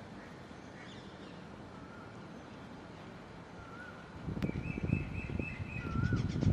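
Small birds calling faintly, short wavering whistles and a quick chattering run. About four seconds in, a loud, irregular low rumble sets in and grows.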